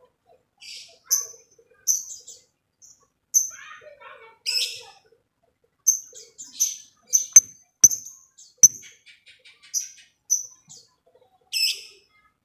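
Lovebird calling: short, shrill high chirps at irregular intervals, about one a second, with a few sharp clicks and a faint quick ticking about two-thirds of the way through.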